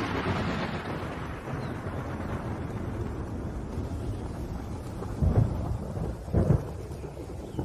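Thunder rolling and slowly dying away over steady rain, with two more short low rumbles of thunder near the end.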